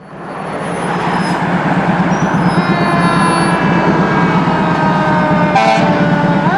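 Fire engine running loud on the road, building up over the first second or so, with faint siren tones falling slowly in pitch. Near the end a siren starts to wind up.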